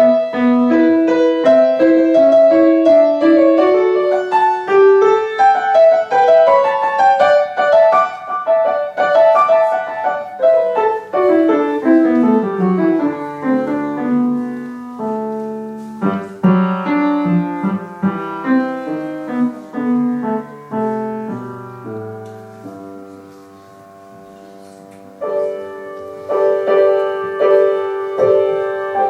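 Piano playing a piece of music: a line of separate notes, a descending run about halfway through, a quiet held stretch, then fuller chords coming back in about four seconds before the end.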